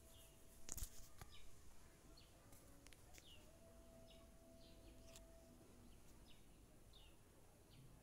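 Faint background birdsong: a short, high, falling chirp repeated about once a second. There is a soft knock about a second in.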